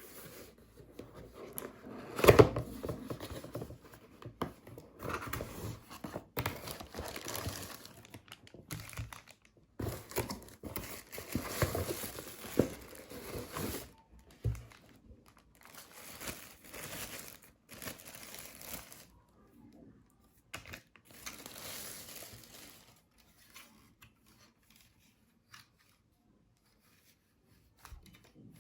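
Packaging being handled, crinkled and torn open by hand in irregular bursts with short pauses, with one sharp knock about two seconds in. The handling thins out to occasional small sounds near the end.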